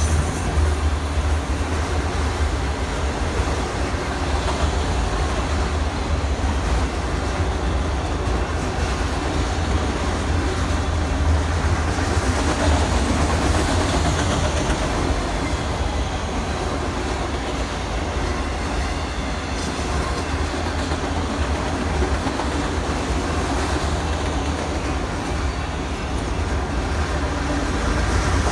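Long Island Rail Road train moving along the track, a steady heavy rumble of wheels on rails with some clicking over the rail joints.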